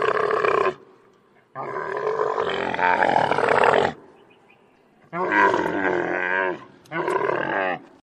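Camel calling: a series of long calls, each one to two seconds long with short pauses between, four in all.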